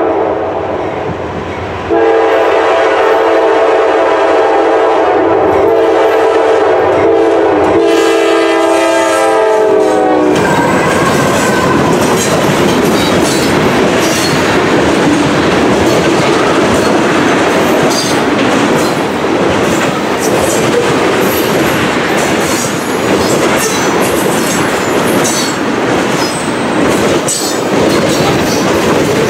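Freight train's locomotive horn sounding one long chord, louder from about two seconds in and dropping in pitch as the locomotive passes about ten seconds in. Then a string of tank cars rolls by with a steady rumble and the clickety-clack of wheels over the rail joints.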